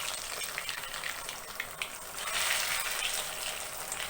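Breadcrumb-coated chicken lollipops deep-frying in very hot oil: a steady loud sizzle with scattered crackles and pops.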